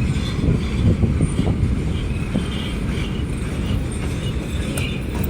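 Freight train cars rolling past at steady speed: a continuous low rumble with scattered clicks from the wheels and track.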